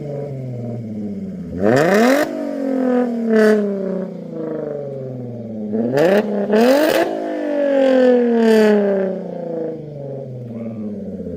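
Jaguar F-Type's supercharged 3.0-litre V6 revved twice through a straight stainless exhaust with the rear silencer and its valves removed. Each rev climbs quickly, then falls slowly back to idle.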